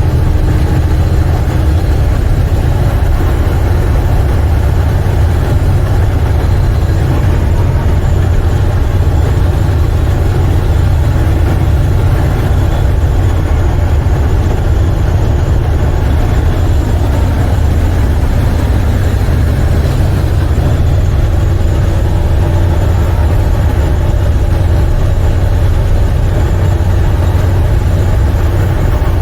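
Semi truck's diesel engine running steadily under way, a loud low drone mixed with steady road and wind noise in the cab.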